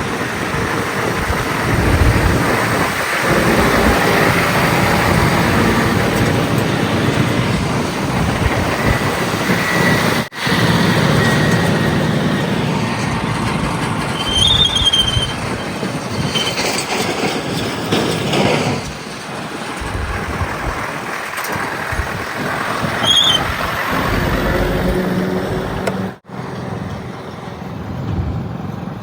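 Diesel engines of heavy earthmoving machinery and trucks running under load, a steady mechanical din. Two brief high squeals cut through it partway along, and the sound breaks off for an instant twice.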